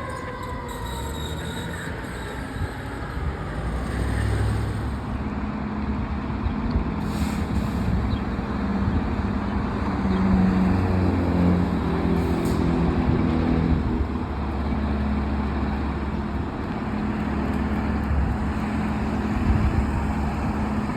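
A siren winds down in the first second, then a heavy truck's engine runs steadily, with two short hisses of air, one about a third of the way in and one just past halfway.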